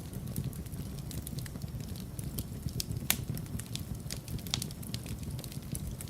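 Wood fire burning in a fireplace: a steady low rumble of the flames with frequent sharp pops and crackles, a couple of louder pops about three and four and a half seconds in.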